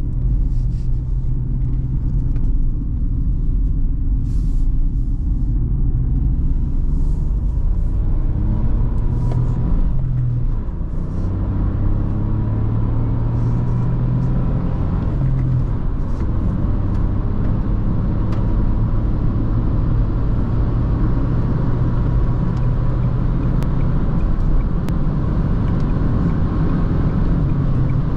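Dacia Jogger's 1.0-litre three-cylinder turbo petrol engine pulling under way, with tyre and road noise, heard from inside the cabin. About ten seconds in, the engine note dips and then picks up again, as in a gear change or a slowing through a roundabout, before running on steadily.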